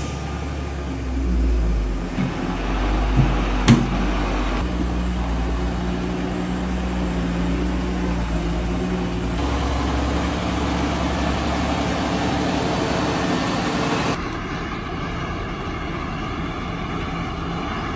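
Heavy truck engine running, with road and tyre noise, and one sharp knock about four seconds in. The sound changes abruptly several times, as at cuts between shots.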